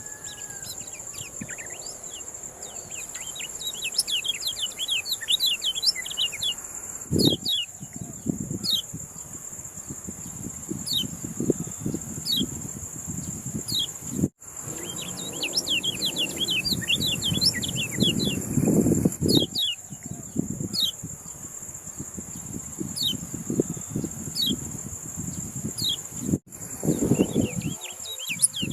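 Kecial kuning songbird singing rapid, high chirping twitters in dense clusters, over a steady shrill insect-like drone. Bursts of low rumbling noise come and go underneath, and the sound cuts out abruptly twice.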